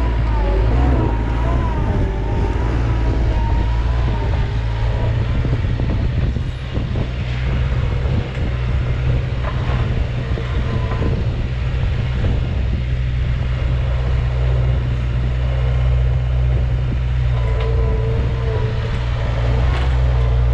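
Bobcat 753 skid-steer's engine running steadily, with a higher wavering whine over the low engine note.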